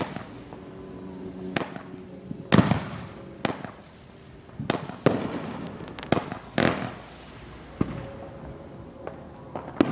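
Consumer fireworks going off: an irregular string of sharp bangs and pops, about a dozen, two of them louder with a short crackling hiss after the report.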